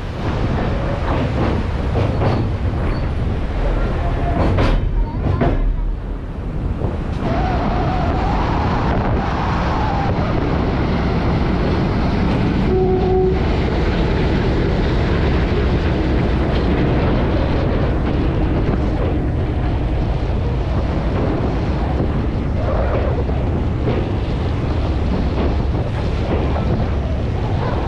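Passenger train hauled by a diesel locomotive rolling across a steel girder rail bridge: a steady, loud low rumble of wheels on the track.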